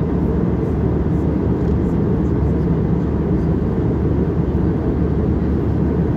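Steady low rumble of an airliner heard from inside the passenger cabin in flight: engine and airflow noise, even and unbroken.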